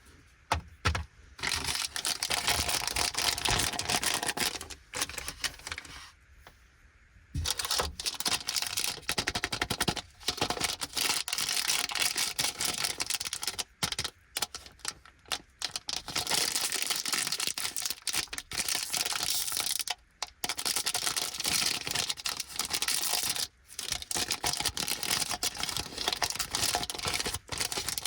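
Plastic candy packaging crinkling and crackling, with tearing, as snack packets are handled and opened by hand. It goes on almost without a break, with a quieter lull about six seconds in and short pauses near the end.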